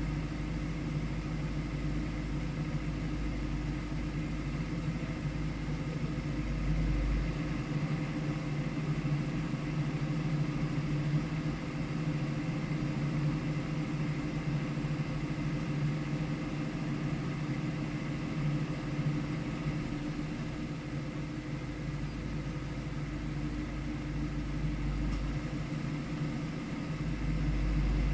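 Car engine idling steadily, holding an even pitch, with a deep low rumble that fades out about seven seconds in and returns near the end.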